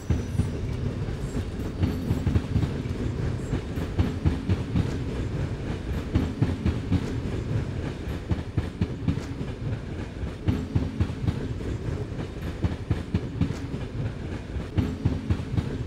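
Train running on rails: a steady low rumble with frequent sharp clicks of the wheels over rail joints.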